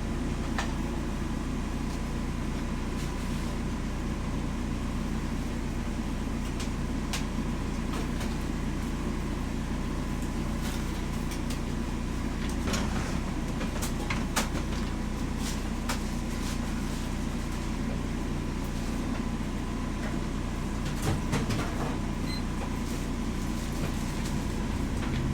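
Steady low mechanical hum, like a running engine or machinery, with scattered sharp clicks and light knocks, a few of them louder about halfway through and again near the end.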